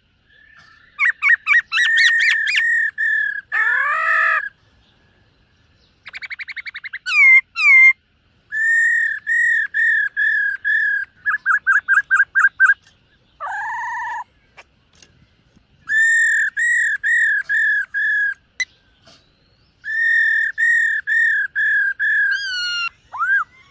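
Black-throated laughingthrush singing. It gives phrases of clear whistled notes repeated five to eight at a time, some fast trills, and a few rising and falling glides, with short pauses between phrases.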